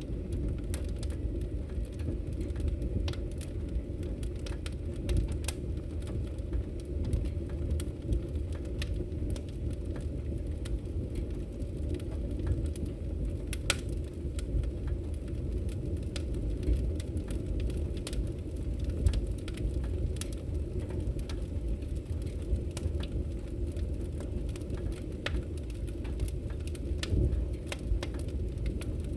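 Wood fire burning in a fireplace: a steady low rumble of flames under frequent small crackles and sharp pops from the burning logs, with a few louder pops scattered through.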